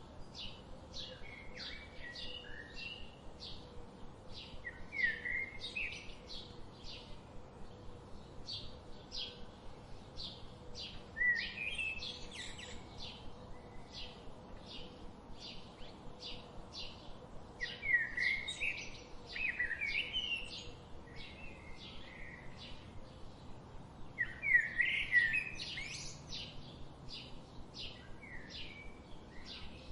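Wild birds singing: one bird repeats a short, high call about twice a second throughout, while another sings brief warbling phrases every few seconds, the loudest bursts about 18 and 24 seconds in.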